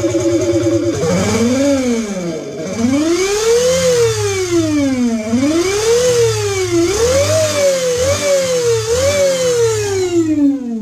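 Motorcycle sound booster playing a simulated big-bike engine: a steady idle, then from about a second in, repeated revs whose pitch rises and falls again and again.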